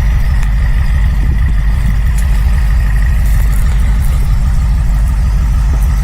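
Loud, steady low rumble of an SUV's engine running, with a faint steady high whine over it.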